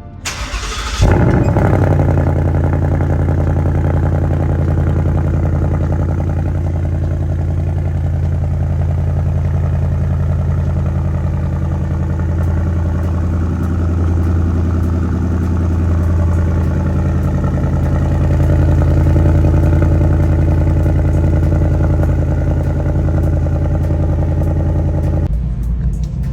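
A 2022 Ford Mustang GT's 5.0-litre Coyote V8, with active dual-mode exhaust, comes in loudly about a second in and settles into a steady, deep idle.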